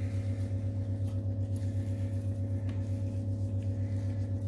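Steady low electrical hum from a switched-on electric cooking hob, pulsing about five times a second, with a faint hiss above it.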